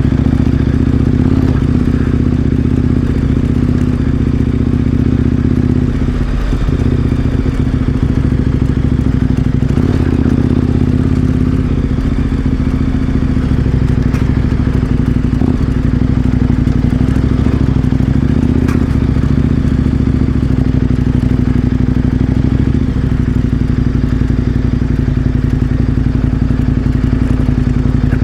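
KTM 1090 Adventure R's V-twin engine running at a steady cruising speed on a dirt road, with small changes in pitch and occasional knocks and clatter.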